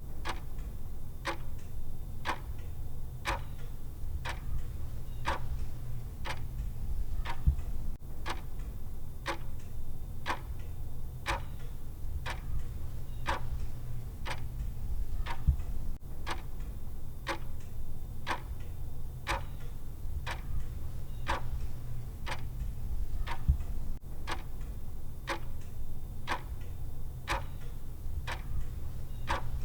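Clock ticking in an even, regular rhythm, over a low steady hum.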